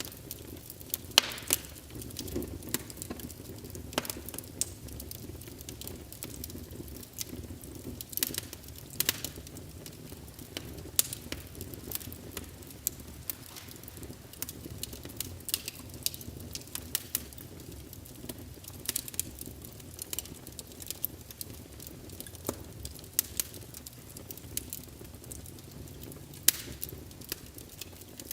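Wood fire burning in a fireplace: burning logs crackling with irregular sharp pops, some much louder than others, over a steady low rumble of flames.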